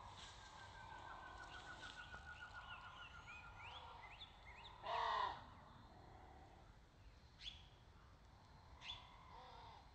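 Birds calling: a rapid, even trill through the first four seconds with twittering chirps over it, then a single loud harsh call about five seconds in, and two sharp chirps later on.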